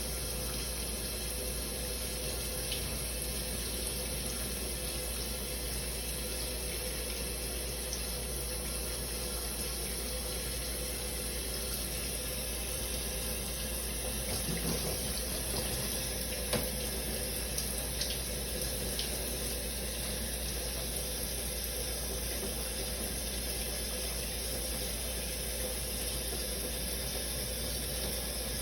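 Shower running steadily, its water spray hissing evenly, with a few small splashes or ticks about halfway through.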